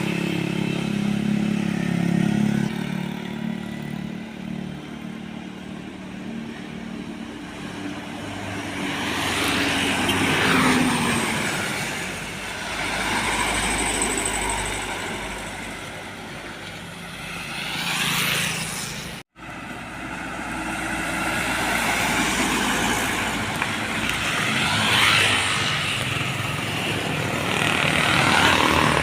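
Road traffic: a large engine drones in the first few seconds, then vehicles pass by one after another, each swelling and fading. A brief sudden dropout comes about two-thirds of the way through.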